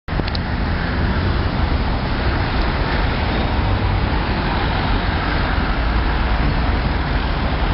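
Steady road traffic noise: cars passing continuously, with a deep rumble underneath.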